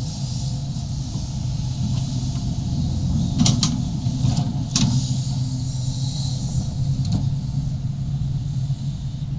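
35-ton Sumitomo SH350-HD-5 excavator's diesel engine running steadily as it digs a trench, with a few sharp knocks from the machine working, about three and a half and five seconds in.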